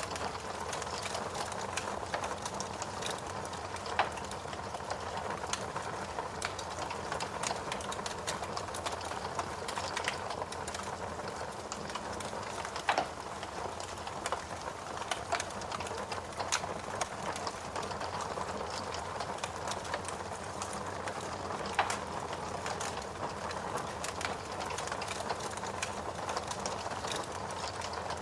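Wood fire crackling in a fireplace over a steady hiss of rain, with many small crackles and now and then a louder pop.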